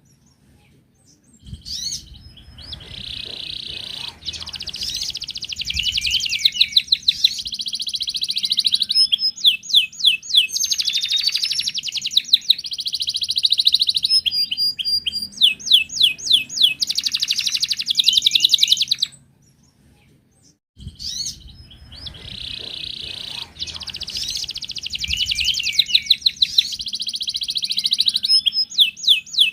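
Wild canary singing long, fast, high-pitched phrases of rapid trills and rolls. The song breaks off twice for a second or two, near the start and about two-thirds of the way in.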